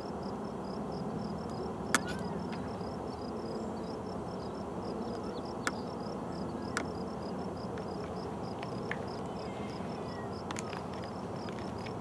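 Distant Union Pacific excursion train's diesel locomotives running steadily, a low rumble carried across open marsh. A high chirp repeats several times a second throughout, and there are a few sharp clicks.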